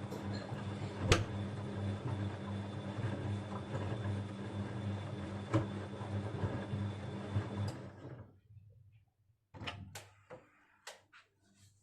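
Bosch Avantixx 6 washing machine running a wash cycle: a steady motor and drum hum with a couple of knocks, stopping suddenly about eight seconds in, followed by a few light clicks and knocks.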